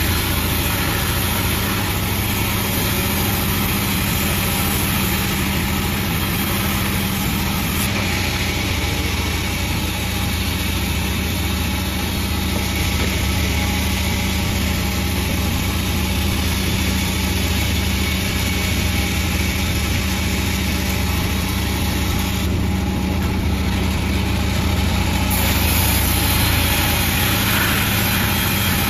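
Panda36 sawmill running steadily, its engine giving a constant low hum under an even hiss of machine noise, with no change in speed.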